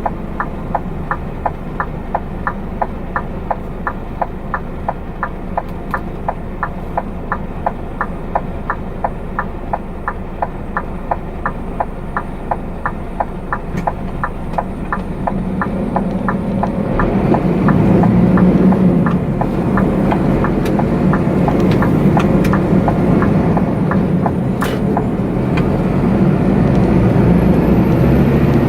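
Inside a truck cab: the turn indicator relay ticks about twice a second over the low rumble of the diesel engine, then the ticking stops about two-thirds of the way through and the engine grows louder as the truck pulls away under load.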